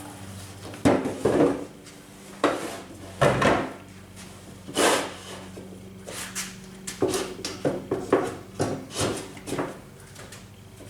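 Irregular knocks and clunks of a 2x6 board and the saw being handled and set in place, with the saw not running.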